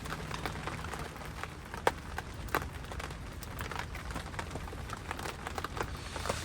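Rain falling, with single drops tapping sharply at irregular moments over a steady background hiss.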